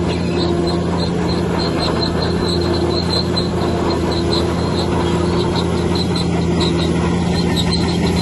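Bulldozer's heavy diesel engine running steadily, with a rhythmic high-pitched squeak from the crawler tracks about three times a second.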